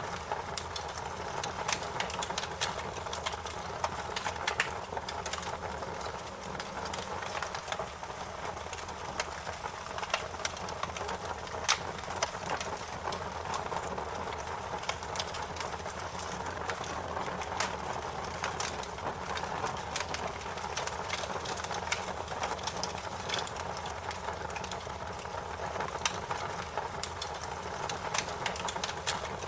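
Wood fire crackling: irregular sharp pops and snaps over a steady hiss of burning.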